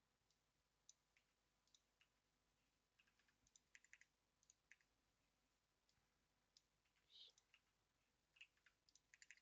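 Faint, irregular computer keyboard typing: scattered single keystrokes with quick runs of keys about three and a half seconds in and again near the end.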